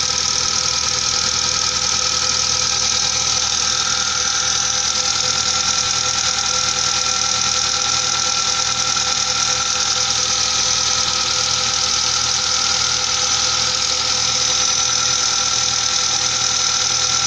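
Mazda 626 engine idling steadily with the rapid tapping of its hydraulic lash adjusters (lifters). The lifters still knock after their faces were grooved to let oil in.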